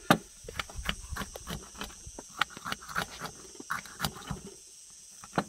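Light, irregular clicks and knocks as a crisp semolina harcha is broken up by hand, with a steady high insect trill behind.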